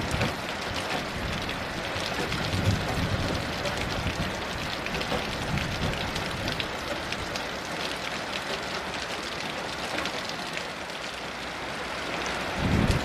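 Heavy rain falling steadily, a dense hiss with many fine drop taps. Near the end a low rumble of distant thunder begins to build.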